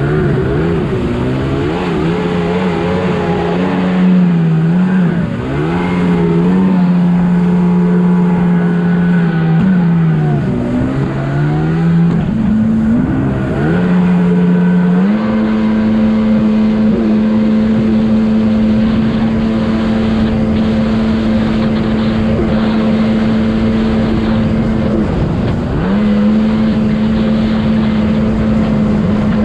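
Two-stroke jet ski engine running hard on the water, its pitch rising and dropping as the throttle is worked in the first half, then held steady at high revs. The revs dip briefly about three-quarters of the way through and climb straight back.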